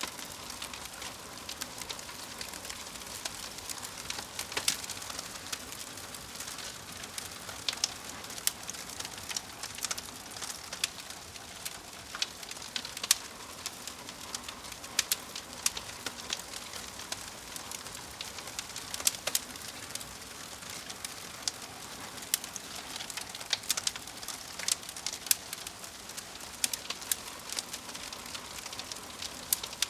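Wood fire in a fireplace, logs burning with steady hiss and frequent irregular sharp crackles and pops.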